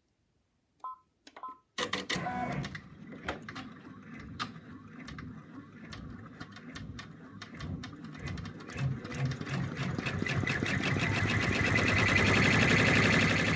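Computerized embroidery machine starting up after a couple of faint beeps and then stitching at speed, a fast, even rhythm of needle strokes that grows louder toward the end. It is sewing the bird's outline, which secures the backing felt to the front in the hoop.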